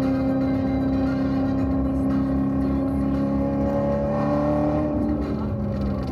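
C7 Corvette Z06's supercharged 6.2-litre V8 pulling steadily in third gear at about 4,000 rpm, heard from inside the cabin. Its pitch rises a little about four seconds in, then falls back about a second later as the throttle eases for a bend.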